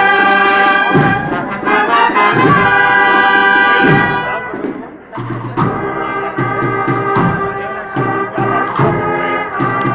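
Brass band playing a Holy Week processional march, with loud sustained brass chords. The chords die away about four seconds in, and the band picks up again a second later with sharp strokes that recur every second or two.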